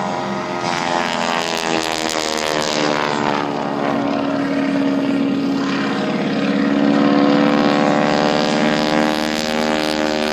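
Propeller aircraft engines droning during an airshow flyby, the pitch bending slowly as the aircraft pass.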